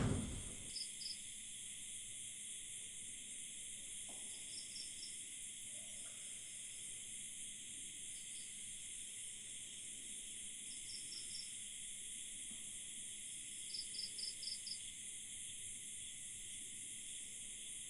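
Night chorus of crickets and other insects trilling steadily, with a nearer one chirping in short groups of three to five quick pulses every few seconds. A single dull thump sounds right at the start.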